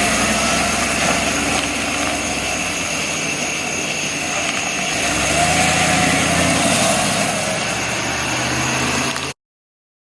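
Steady engine noise, running evenly and cutting off abruptly about nine seconds in.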